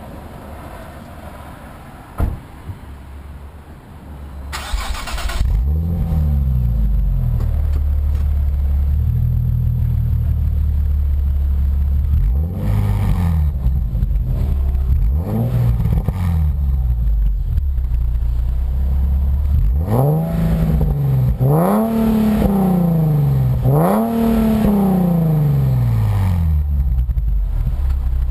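Nissan 370Z's 3.7-litre V6 through an HKS Hi-Power titanium exhaust, starting about five seconds in and settling to idle. It is then revved about six times, each rise and fall of pitch a throttle blip, the last three higher and close together.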